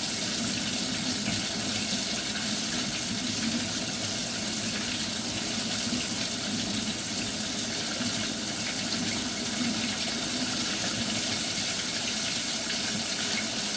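Kitchen tap running steadily into the sink as pork chops are rinsed under the stream.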